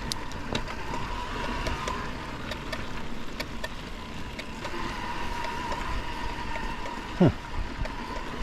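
Mountain bike riding over a dirt trail, with a steady whine and irregular sharp clicks from the drivetrain: an odd noise the rider later traces to a crank coming loose. There is wind on the microphone, and a short loud falling sweep about seven seconds in.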